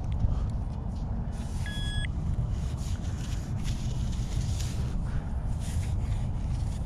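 A short two-note electronic beep from a metal detector about two seconds in, over a steady low rumble of wind on the microphone.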